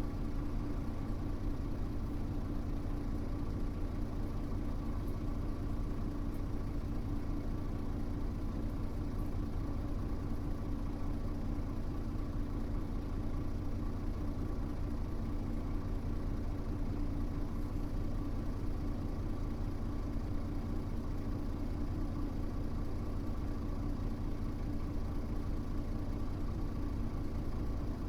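Mitsubishi Fuso U-MK618J route bus's diesel engine idling steadily at an unchanging pitch, heard from inside the cabin.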